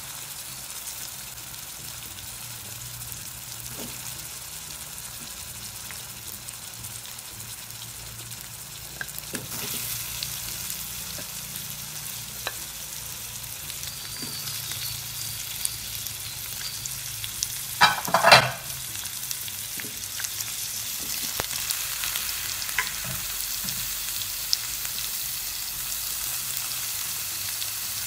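Tempered onion, chilli and tomato sizzling in oil in a metal pan as chunks of vegetable are dropped in, with small clicks and a louder clatter about two thirds of the way through. The sizzle grows a little stronger about a third of the way in.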